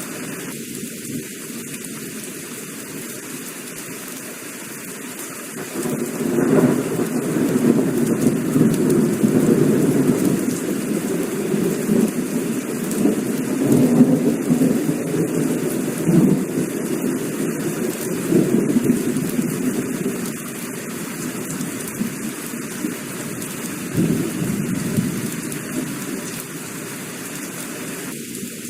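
Heavy rain falling steadily, with a long roll of thunder building about six seconds in and rumbling on for some fifteen seconds. A shorter rumble comes near the end.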